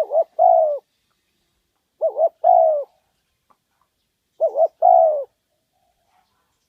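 Spotted dove cooing its call: three phrases about two seconds apart, each two short notes followed by a longer coo that falls in pitch.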